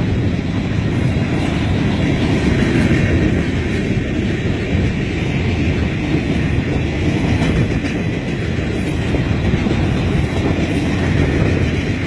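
Freight train of boxcars rolling past: a steady, loud rumble of steel wheels on the rails.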